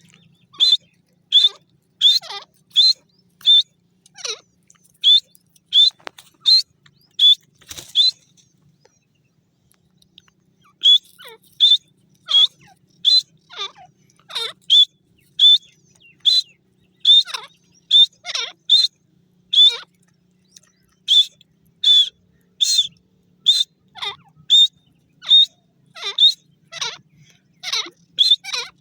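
Grey francolin calling: a long series of loud, sharp, high whistled notes, about one to two a second, with a pause of a couple of seconds about a third of the way through before the series starts again.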